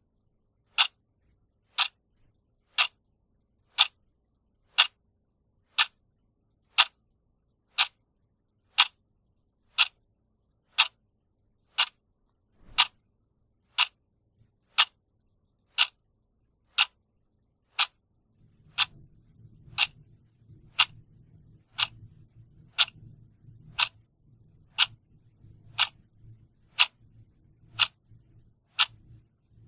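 A real clock ticking steadily, one sharp tick a second. A faint low hum comes in about two-thirds of the way through.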